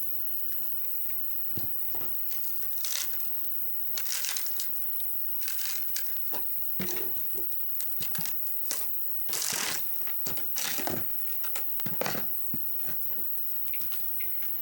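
Wood campfire crackling, with irregular sharp pops and snaps and a few longer rustling bursts.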